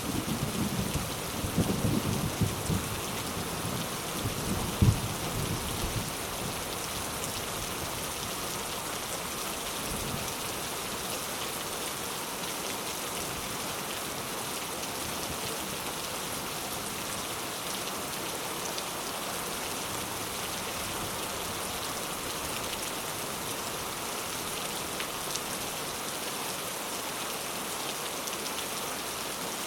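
Heavy rain falling steadily as an even hiss. A low rumble of thunder dies away over the first few seconds, with a last louder crack about five seconds in.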